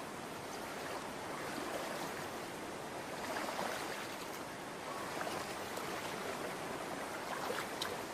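Shallow stream water running and rippling in a steady rush, with a brief sharper sound near the end.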